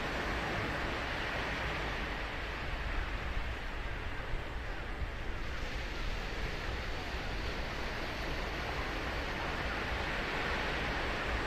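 Ocean surf breaking and washing on a sandy beach, a steady rushing hiss that eases off slightly in the middle and swells again near the end.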